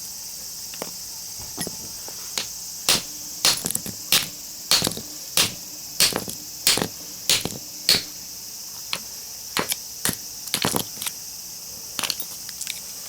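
Hammer blows on a chisel cutting into a small transformer's steel-plate core: a steady run of sharp strikes about every 0.6 s, then fewer, more scattered hits near the end. The steel plates inside the core are what keep the chisel from cutting through.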